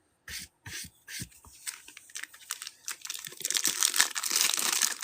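Handling trading cards and a foil card pack: a few short rustles, then the pack wrapper crinkling and tearing open, getting denser from about three seconds in.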